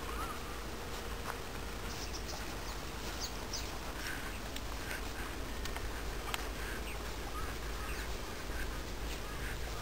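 Wild birds calling: several short, high chirps about two to five seconds in, over a steady low rumble and a few faint clicks.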